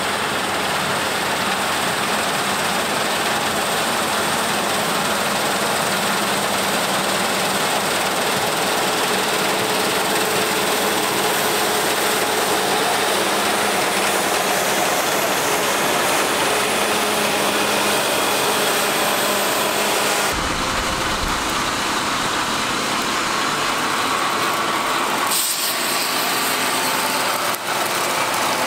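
Harvest machinery running steadily in a wheat field, a dense mechanical drone of engines and working parts. The sound changes abruptly twice, about 20 and 25 seconds in, as the shots change.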